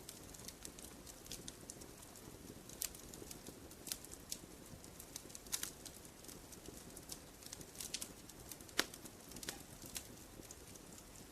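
Wood fire crackling in a fireplace: irregular sharp pops and snaps over a low steady hiss, with one louder pop near the end.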